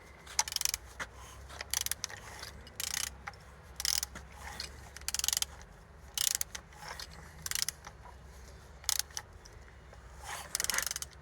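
Used engine being turned over by hand at the crankshaft with a wrench: short ratcheting, metallic clicks and mechanism noises in irregular bursts about once a second. The engine turns freely, with compression on all cylinders.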